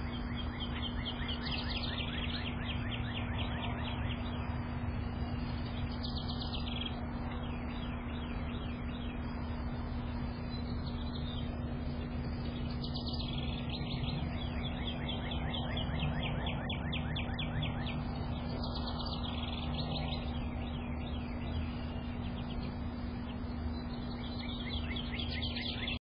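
A songbird singing long, rapid trills of chirps, about four runs of several seconds each, over a steady low hum and rumble.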